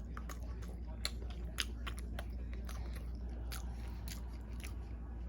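A person chewing a mouthful of chicken, broccoli and pasta, with scattered short wet clicks and smacks of the mouth.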